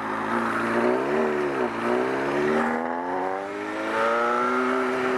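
Honda CBR954RR's inline-four engine pulling the bike along: the revs rise and dip about a second in, then climb steadily for a couple of seconds and hold steady, with wind noise over it.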